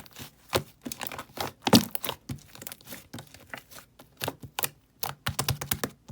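Pink-and-black slime being worked by hand, giving an irregular run of sharp clicks and crackly pops, several a second, with the loudest pop about two seconds in and a quick cluster near the end.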